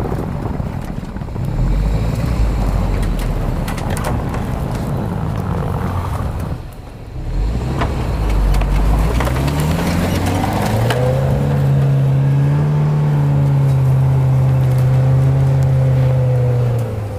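Off-road SUV engine working hard on a steep snowy climb. It eases off briefly about seven seconds in, then revs up, rising in pitch, and is held at high revs for the rest.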